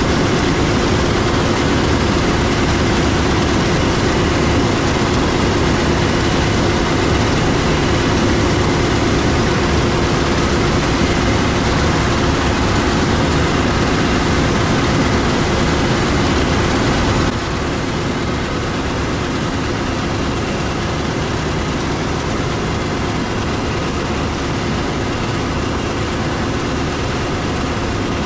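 Heavy diesel harvest machinery running steadily under load, a dense mechanical drone with a steady hum. About seventeen seconds in, the sound steps down abruptly to a slightly quieter, duller drone.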